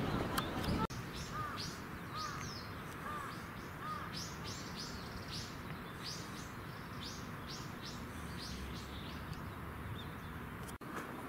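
Small birds chirping: a run of short, high, falling chirps, a few a second, over a steady background hiss.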